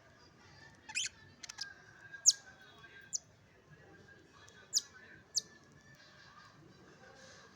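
Pet budgerigars giving brief, sharp, high-pitched chirps, about seven scattered across several seconds, several of them quickly falling in pitch.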